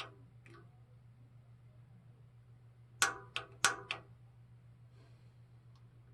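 Sharp clicks of a gas water heater's pilot igniter being worked while the pilot is relit: one at the start, four in quick succession about three seconds in, and another at the end. A low steady hum runs underneath.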